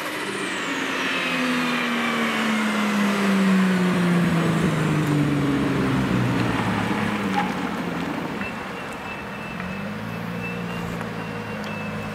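Turbocharged Toyota 1JZ straight-six in a Nissan S14 Silvia driving away, its engine note falling steadily in pitch over several seconds as it recedes. From about two-thirds of the way in the engine note steadies and rises slightly as the car comes back round.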